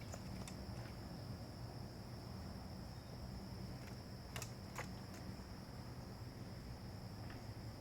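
Steady high-pitched insect buzz, as of crickets, over low rumble, with two sharp clicks a little past halfway.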